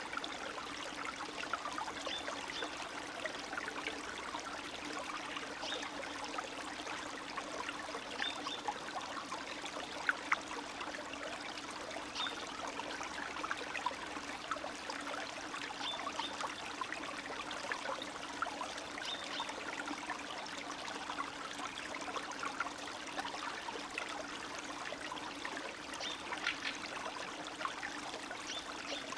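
Spring meltwater stream trickling and babbling steadily, with many small splashes and gurgles.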